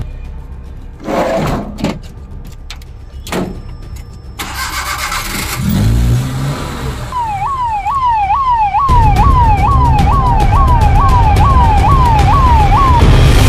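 Van ambulance starting up and pulling away: a couple of knocks early on, the engine starting about six seconds in, then its electronic siren sounding a repeated rising wail, about two sweeps a second.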